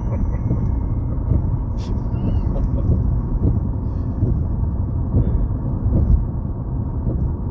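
Steady low road rumble inside a moving car: tyre and engine noise while driving.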